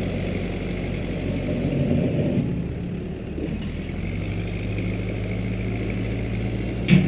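Case 580B backhoe engine running steadily, easing briefly about three seconds in before settling again. A short sharp knock sounds near the end.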